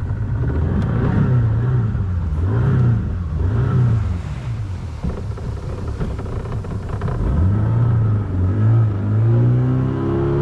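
Fishing boat's outboard motor running, its pitch rising and falling several times in the first few seconds, then holding steadier.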